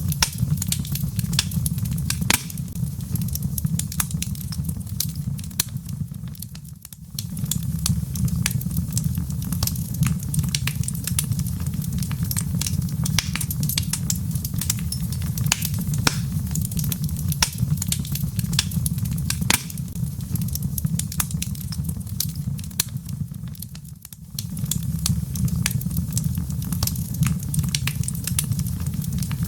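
Wood fire in a fireplace crackling and popping over a steady low rumble of flames. The sound briefly fades and comes back twice, about seven and twenty-four seconds in.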